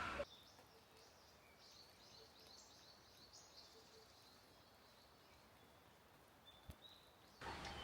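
Near silence with a few faint, high bird chirps and a single soft click near the end.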